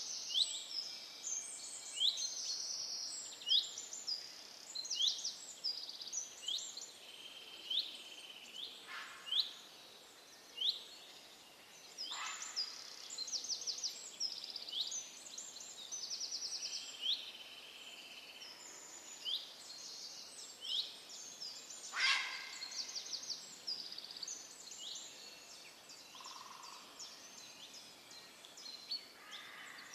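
A dense chorus of small songbirds: many overlapping quick chirps and short trills, with a few louder calls standing out now and then.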